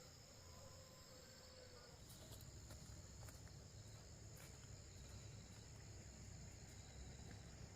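Near silence, with faint steady high-pitched insect chirring and a low rumble underneath; a few faint ticks after about two seconds.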